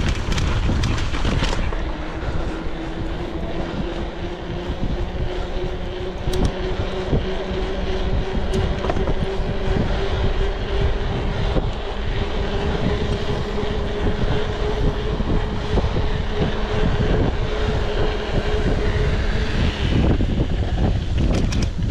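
Mountain bike descending fast on a rough trail: continuous rumble and rattle of tyres and frame with wind on the microphone. A steady whine comes in about two seconds in, rises slightly in pitch, and fades out near the end.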